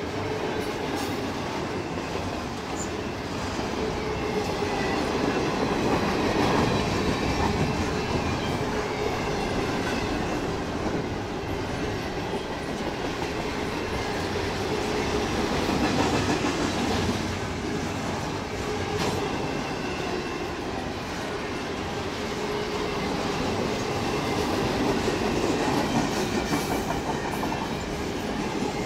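Canadian National freight train rolling past, its cars' steel wheels running over the rails in a steady noise that swells and eases a little, with a faint thin ringing above it.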